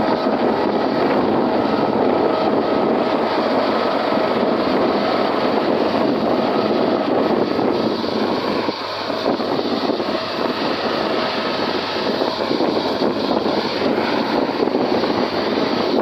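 Tractor engine running steadily, heard with a rushing noise, with a brief slight dip in level about halfway through.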